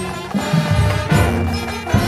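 Drum and bugle corps playing: a brass section holds sustained chords over a beat of bass drums and percussion.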